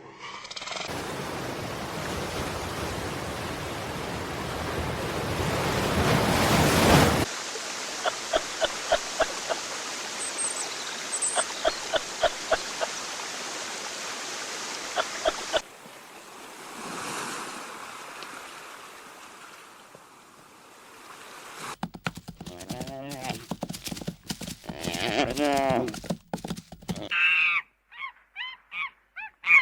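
A sequence of animal sounds: a steady rushing noise for about the first seven seconds, then a run of short calls repeated about once or twice a second, and in the last several seconds a choppy series of pitched, wavering calls.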